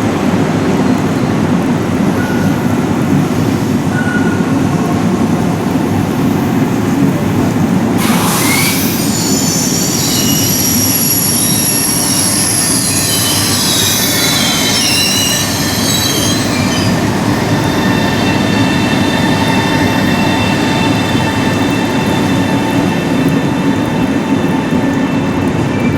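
An SBB RABe 503 (ETR 610) tilting electric train moving through the station with a steady rumble. About eight seconds in there is a sudden rush of noise, followed by several seconds of high-pitched wheel squeal. After that, several steady high tones carry on over the rumble.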